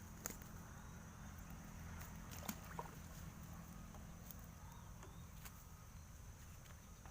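Faint pondside ambience: a steady high insect drone over a low rumble, with a few sharp clicks scattered through.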